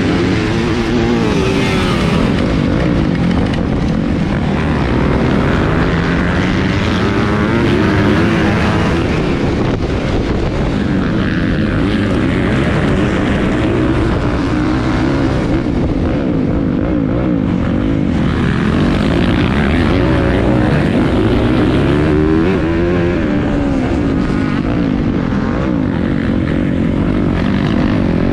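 Motocross bike engines revving up and falling away again and again as they ride, several engines overlapping.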